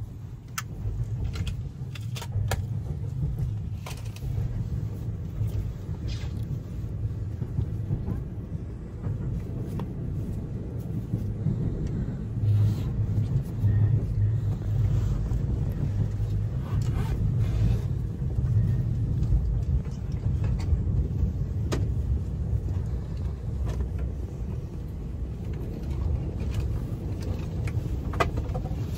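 Running noise inside a JR East commuter train's Green Car: a steady low rumble of wheels on rail, with scattered clicks and knocks.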